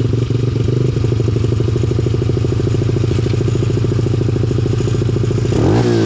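Pit bike engine idling steadily. Near the end there is a quick blip of the throttle, with the pitch rising and dropping back to idle.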